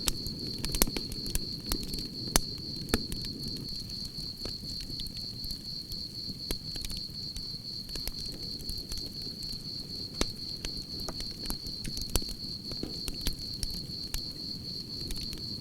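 Campfire burning with irregular sharp crackles and pops over a low rumble of flames, while crickets chirp in a steady high trill.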